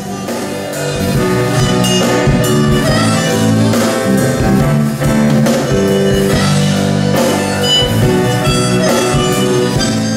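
Band music in an instrumental passage between sung lines: guitar over a drum kit, with a steady beat.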